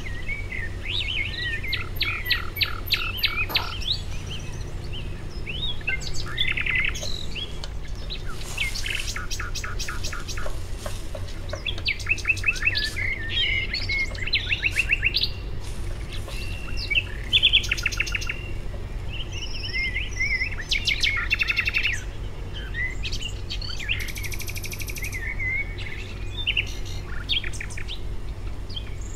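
Birds chirping and trilling, with many quick runs of repeated notes, over a steady low hum.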